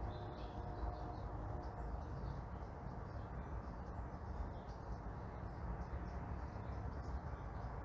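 Morning neighbourhood ambience: small birds chirping here and there over a steady low rumble of distant traffic.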